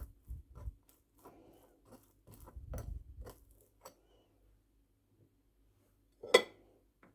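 Kitchenware being handled: a scatter of small clicks and light knocks, then one loud, sharp knock with a short ring about six seconds in.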